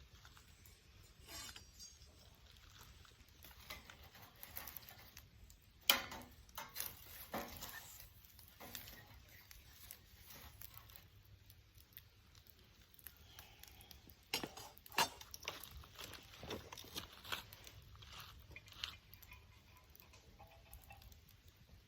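Wood fire crackling: irregular sharp pops and snaps, with the loudest cluster about six seconds in and another around fifteen seconds.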